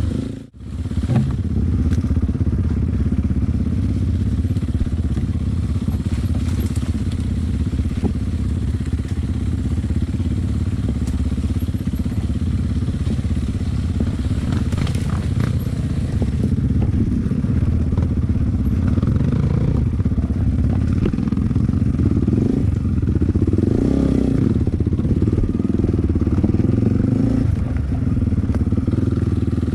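Enduro dirt bike engine running steadily under way on a trail, after a brief drop in sound just after the start.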